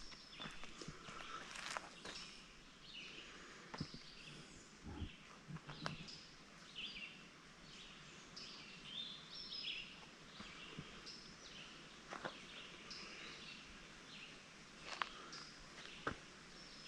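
Faint birdsong in woodland: many short chirps and calls from several birds, with a few scattered clicks and steps on the trail.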